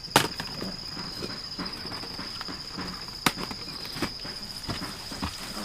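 A steady high-pitched insect trill, with two sharp clicks, one just after the start and one about three seconds in, and scattered light taps.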